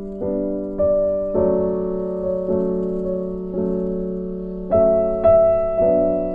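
Background music: slow piano chords, each struck and left to ring and fade, with a brighter, louder chord about five seconds in.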